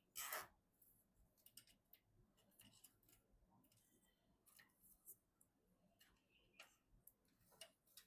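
Scattered light clicks and taps of PC hardware being handled, with one louder brief scrape or rustle right at the start.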